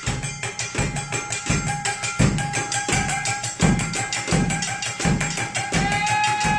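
Japanese taiko-style percussion ensemble playing a rhythm piece: deep drum strokes at a steady pulse under quick, sharp stick clicks, with a steady ringing tone above.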